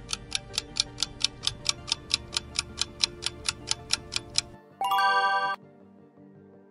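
Quiz countdown-timer sound effect: rapid clock-like ticking, about six ticks a second over a low music bed, ending about five seconds in with a short bright chime.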